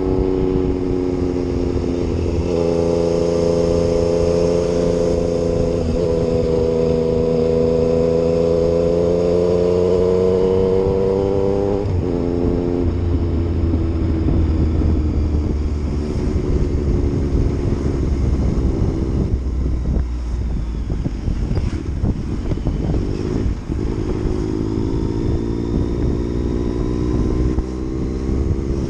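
Yamaha MT-09's three-cylinder engine under way on the road, its pitch climbing slowly through a long pull and dropping off suddenly about twelve seconds in. It then runs with more wind and road noise before climbing again near the end.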